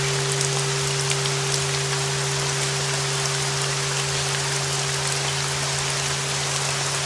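Steady rain with fine scattered drop ticks, layered over a continuous steady tone near 396 Hz and a lower steady drone, as in a solfeggio-frequency meditation track.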